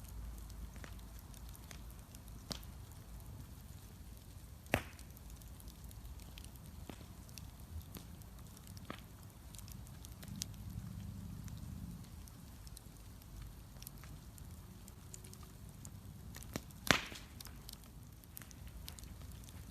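Wood bonfire crackling: scattered small pops and snaps, with two sharp loud pops, one about five seconds in and one near the end, over a low steady rumble.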